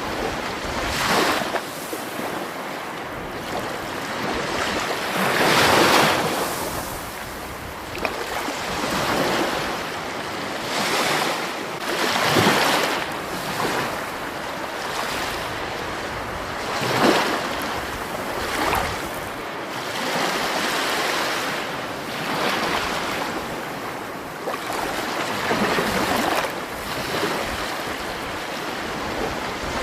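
Rushing water, a steady wash that swells into louder surges every few seconds.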